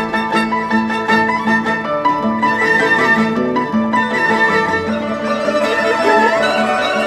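Chinese traditional orchestra playing, led by bowed huqin strings over a pulsing chord repeated a few times a second. From about two-thirds of the way through, quick warbling trills and slides in the high strings imitate birdsong.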